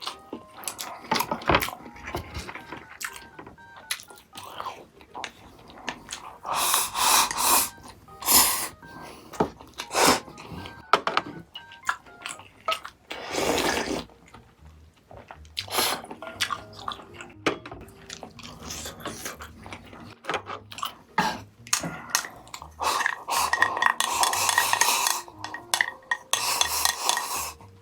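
Cutlery clinking against bowls and dishes, with eating sounds between the clinks, over light background music.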